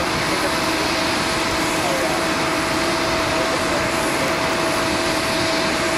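Rolls-Royce Trent XWB-84 turbofans of an Airbus A350-900 running steadily: an even rushing roar with a steady tone held underneath it, with no change in pitch or level.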